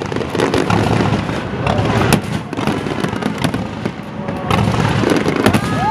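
Fireworks going off in rapid succession: a dense run of bangs and crackling pops over a continuous rumble.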